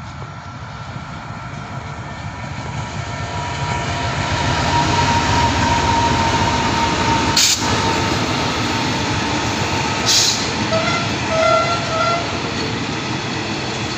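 Train pulled by a QSY diesel-electric locomotive arriving past the trackside, its running noise swelling over the first few seconds and then holding loud and steady. Two brief sharp noises come about 7 and 10 seconds in, and a few short tones near the end.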